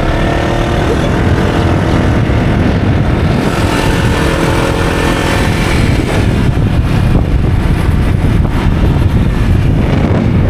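A motor vehicle's engine running steadily under a heavy low rumble of wind and road noise, as heard while travelling in or on the vehicle.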